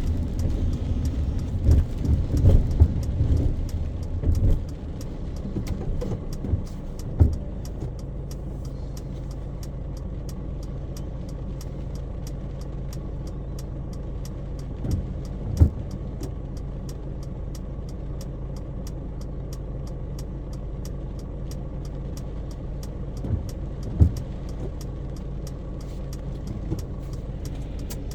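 A car's engine running steadily, heard from inside the car: a low, even hum, with a cluster of knocks in the first few seconds and a few single thumps later on. A faint regular ticking runs underneath.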